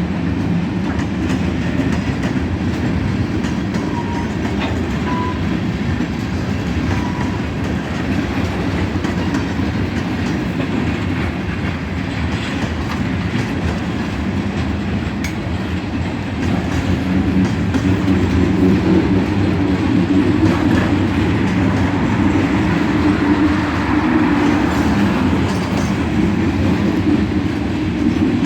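Long manifest freight train rolling past at close range, a steady heavy noise of wheels on rail that grows louder about two-thirds of the way through.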